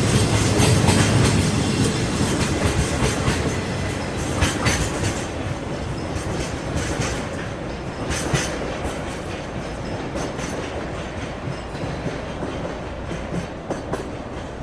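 Freight train rolling past, its wagons' wheels clicking over rail joints, the sound slowly fading as the train moves away.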